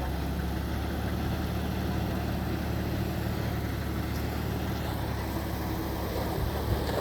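Heavy diesel construction machinery engine running steadily at a low, even pitch.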